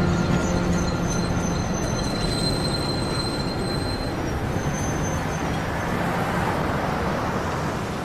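A rail vehicle running on its track with a steady rumble and a thin, high wheel squeal in the first half.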